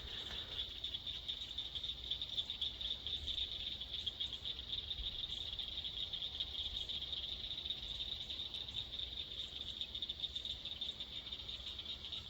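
A chorus of frogs trilling: a continuous high-pitched trill that holds steady without a break.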